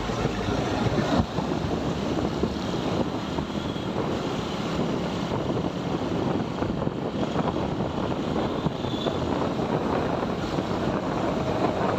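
Motorcycle riding at speed: wind rushing over the microphone over the steady drone of the bike's engine and road noise.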